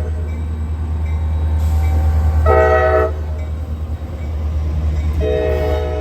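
Diesel freight locomotive air horn sounding a short blast, then a longer one that begins near the end, over the heavy steady rumble of the passing train.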